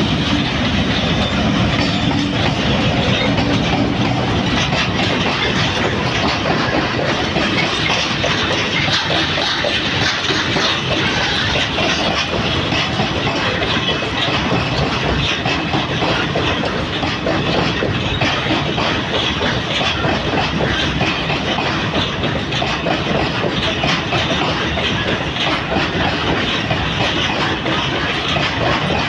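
Pakistan Railways HBU-20 diesel locomotive passing close, followed by a long train of flatcars loaded with tanks rolling steadily by. The wheels clickety-clack continuously over the rail joints.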